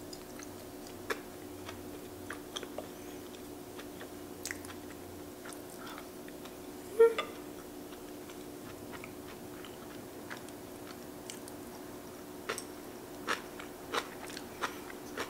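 A person chewing a mouthful of vegan egg with the mouth closed, close to the microphone: soft, scattered mouth clicks and smacks. A brief hummed 'mm' comes about seven seconds in, and the clicks come more often near the end, over a faint steady hum.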